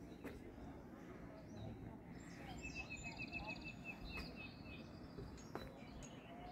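Faint outdoor background with a low rumble, and a small bird calling a quick run of about eight short chirps at one pitch, roughly three seconds in.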